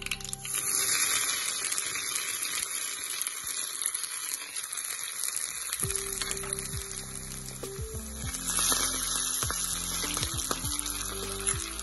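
Grated coconut sizzling in hot oil in a cast iron pan, a steady frying hiss that starts as the coconut goes in. It swells again about eight and a half seconds in, as curry leaves hit the oil. Background music plays underneath.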